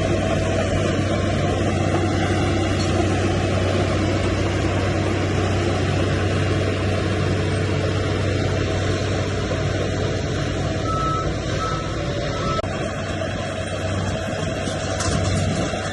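Heavy diesel earthmoving machinery running steadily under load, a continuous low engine hum with dense mechanical clatter, easing slightly near the end.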